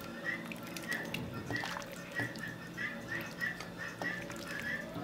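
A run of short high chirps, about three a second, like a small bird calling, over a low steady hum, with a few faint clicks.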